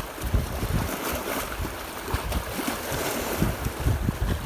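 Wind buffeting the microphone in strong gusts, an uneven low rumble over a steady hiss.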